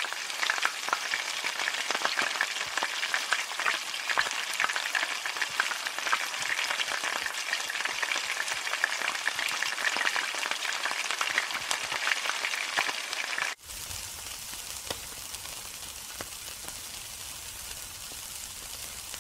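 Food frying in hot oil in a wok, sizzling with many small pops. About thirteen and a half seconds in it cuts to a quieter, steadier sizzle of meat skewers on a charcoal grill, with a low rumble underneath.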